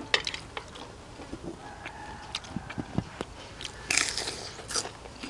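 Close-miked eating sounds: a person biting and chewing food in irregular sharp clicks, with a louder flurry of bites about four seconds in.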